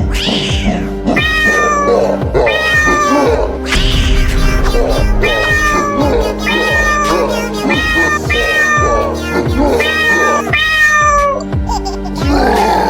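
A domestic cat meowing over and over in short falling cries, over steady background music.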